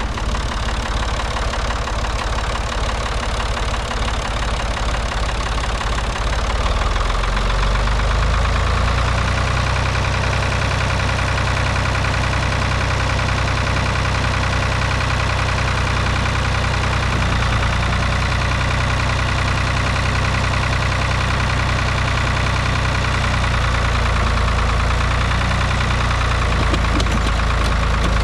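Tractor engine running with a knocking note, working harder about six or seven seconds in, where it grows louder and deeper and then holds steady under load during an attempt to pull the tractor free of deep snow.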